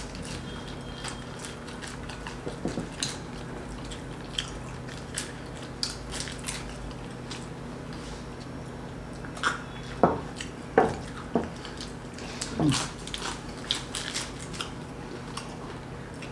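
People chewing and biting into samosas and batter-fried green chillies (mirchi pakoda), with scattered small mouth clicks and smacks. A few louder bites come a little past halfway, over a faint steady hum.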